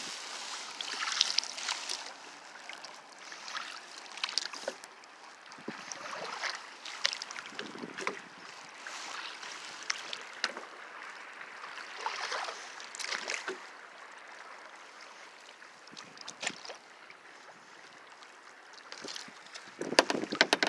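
Kayak paddle strokes: the blades dip and splash in the water in irregular surges a second or two apart, with sharp drips and clicks over a steady water hiss. The loudest splash comes near the end.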